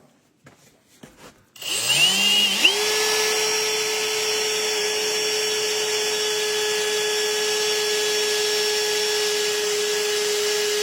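Power drill with a 5/16-inch Millner Haufen bit, started about a second and a half in after a few small handling clicks. The motor winds up quickly in pitch, then runs at a steady speed with an even whine.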